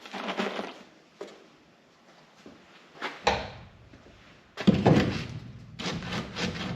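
Wooden boards being handled and set against a wall: a few scrapes and knocks, the loudest a heavy knock about five seconds in, then a run of quick taps near the end.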